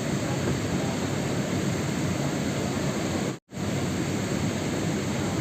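Steady rain noise, a dense even hiss with a heavy low rumble. It cuts out completely for a split second about three and a half seconds in, then resumes at the same level.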